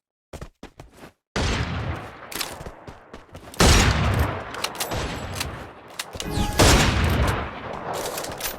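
Food frying in hot oil: a sudden loud sizzle and crackle starts about a second in, flares up twice more, and eases off near the end.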